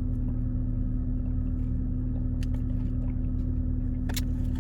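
A person eating, with a few faint clicks of chewing and biting, over a steady low hum that is the loudest sound.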